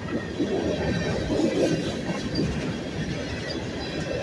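Freight train of covered hoppers and tank cars rolling past close by, its steel wheels making a steady rumble on the rails.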